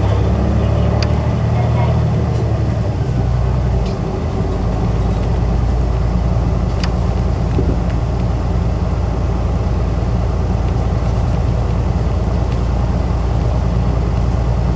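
Isuzu Erga city bus heard from inside, underway: its four-cylinder diesel engine runs steadily with road noise, the low engine note changing about four seconds in. A few light clicks and rattles sound along the way.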